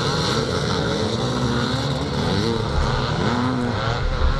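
Twinshock-era motocross bikes racing past, engines revving up and down so that several engine notes rise and fall over one another.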